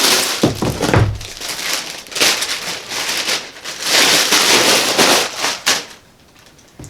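Packaging being handled: irregular crinkling and rustling with small knocks, stopping about six seconds in.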